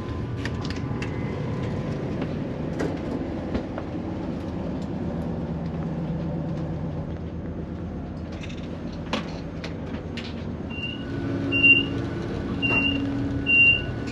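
Interior of a CrossCountry Voyager diesel train standing at the platform: a steady engine and ventilation hum with scattered knocks. Near the end come four short high beeps about a second apart, the door-closing warning before the train pulls away.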